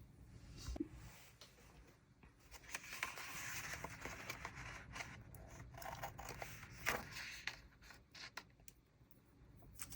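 Scissors cutting through a paper page layered with stickers, trimming its edge: scratchy cutting noise with a few sharp snips.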